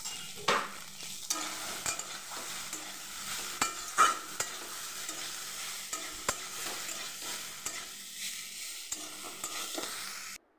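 Soya chunks frying in hot mustard oil in a kadai: a steady sizzle, with a metal spatula stirring and now and then scraping or knocking against the pan. The sound breaks off briefly at the very end.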